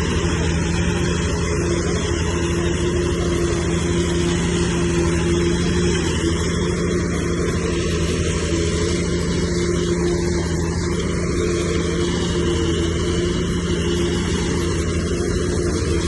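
Heavy earthmoving machine's diesel engine running steadily under load, a constant low, pitched drone with no change in speed.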